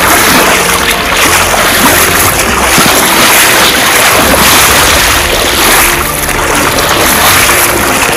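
Loud, steady rushing of floodwater.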